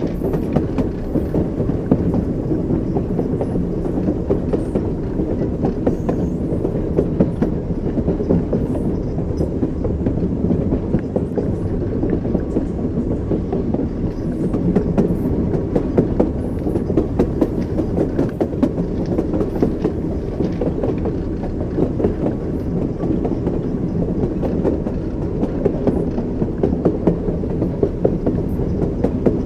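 Train wheels rolling over rail joints: a steady low rumble with a continuous clickety-clack of wheel knocks.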